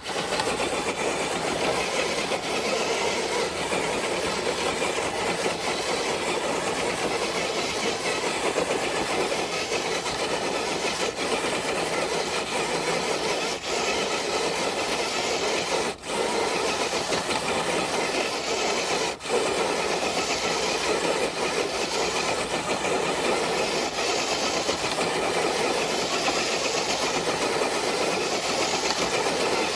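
Traxxas TRX4 RC crawler dragging a weighted dead sled: a steady scraping rasp of the sled sliding over the ground, with the truck's electric motor and gears running under load.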